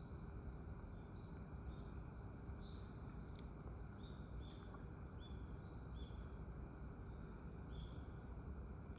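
A series of short, high-pitched bird chirps, single notes about a second apart, clearest from about four seconds in, over a steady low background rumble.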